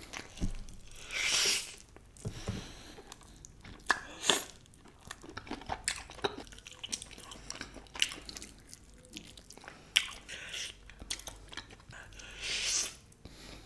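Mouth sounds of eating roasted barbecue chicken wings: irregular bites and wet chewing, with sharp clicks scattered throughout.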